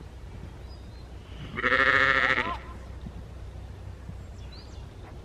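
A loud wavering cry lasting about a second, rising in pitch at its end.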